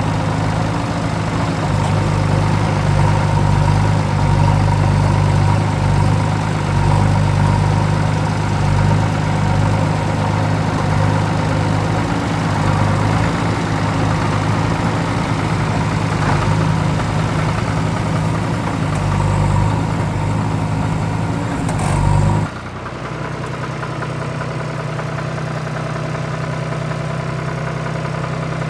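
Vehicle engine idling steadily. About 22 seconds in it cuts abruptly to a quieter, different idling engine.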